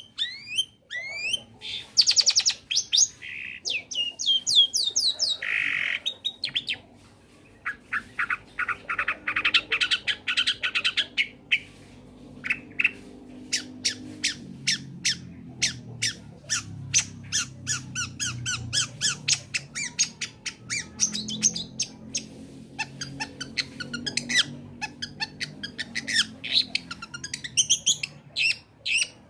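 Long-tailed shrike singing a fast, varied song of chattering clicks, sweeping whistles and harsh rasping notes, with one longer rasp about five seconds in.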